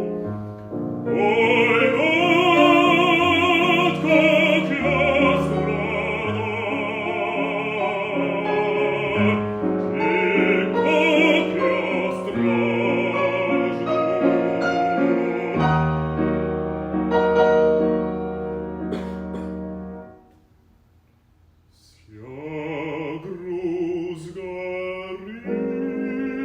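Classical art song sung by a bass with piano accompaniment, the voice holding long notes with a wide vibrato. The music breaks off for about two seconds near the end, then resumes.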